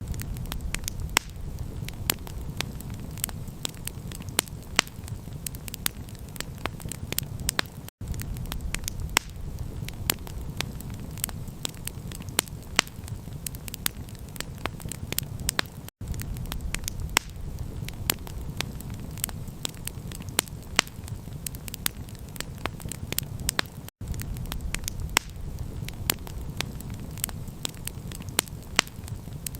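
Campfire crackling: frequent sharp pops and snaps over a low, steady rumble. The sound cuts out for an instant about every eight seconds.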